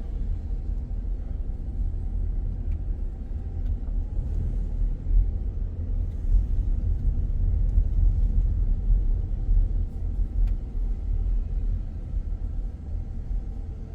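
Car driving: a low, steady road and engine rumble, heavy in the bass, swelling a little in loudness partway through.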